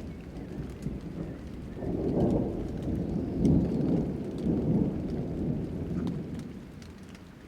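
A long roll of thunder over steady rain: the rumble swells about two seconds in, peaks in the middle, then fades away near the end, with fine raindrop ticks throughout.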